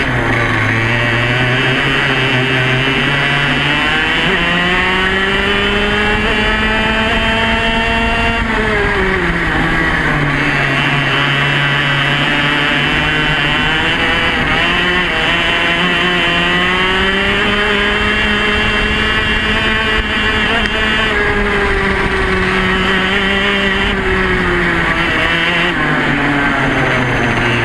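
Yamaha KT100 100cc two-stroke kart engine running hard on track, heard onboard. Its pitch climbs under acceleration and holds high, drops sharply about a third of the way in as the kart slows, climbs again, and falls once more near the end.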